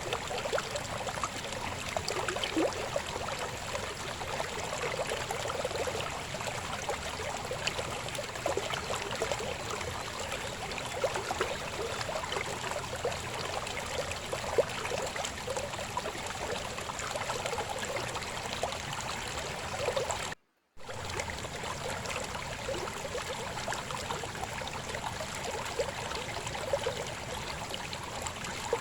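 Babbling river flowing steadily, a dense run of small splashes and gurgles. About two-thirds of the way through, the sound drops out to silence for a split second.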